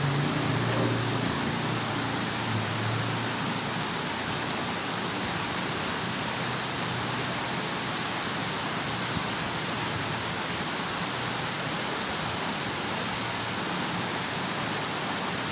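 Heavy rain falling: a steady, even hiss that holds at one level, with a faint low rumble in the first few seconds.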